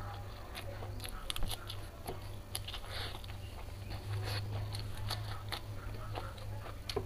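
Close-up eating sounds: biting and chewing crisp raw lettuce, with repeated sharp crunches and wet mouth clicks, the sharpest about a second and a half in. A steady low hum runs underneath.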